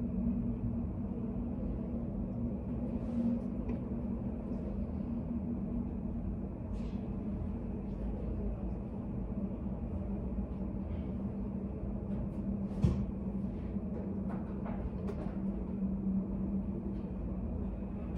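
Study-room ambience: a steady low hum with scattered faint taps and clicks, and one sharper click about two-thirds of the way through.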